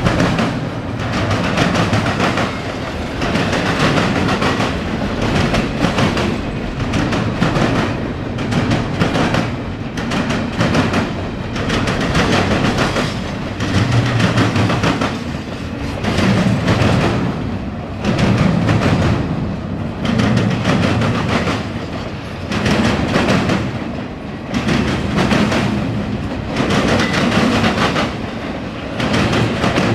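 Norfolk Southern intermodal freight train rolling past, its wheels clacking over the rail joints in a steady, regular rhythm as the cars go by.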